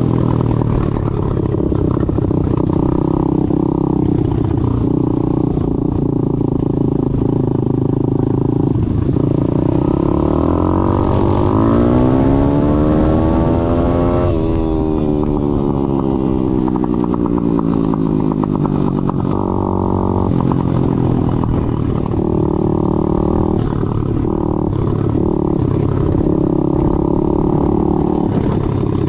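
Daytona 190cc single-cylinder four-stroke engine of a YCF SP3 pit bike running while being ridden, its pitch rising and falling with the throttle. About a third of the way in it revs up steadily for several seconds, then drops off sharply.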